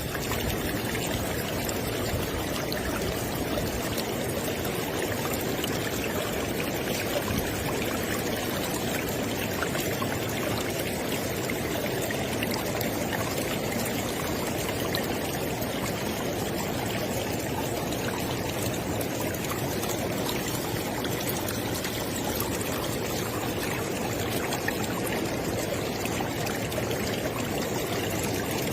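River water flowing: a steady, even rush of moving water with no let-up.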